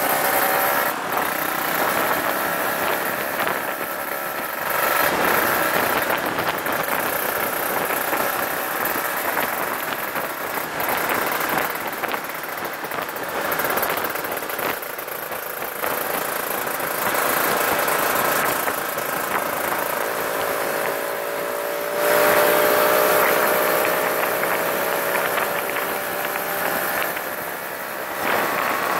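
Honda sport motorcycle's engine running steadily while riding on the road, with wind and road noise. The engine note climbs slowly about two-thirds of the way through, then gets louder.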